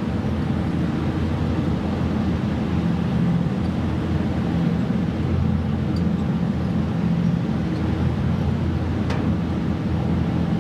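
Boat engine running steadily, a low even drone, with wind on the microphone.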